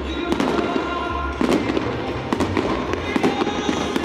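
Fireworks bursting overhead in a rapid, irregular string of bangs and crackles, with music playing underneath.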